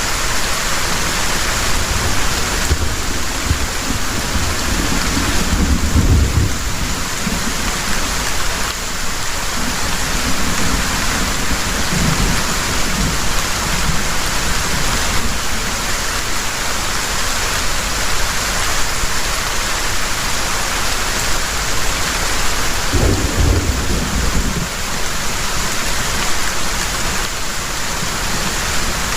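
Heavy rain falling steadily, with several low rolls of thunder; the strongest come about six seconds in and again about twenty-three seconds in.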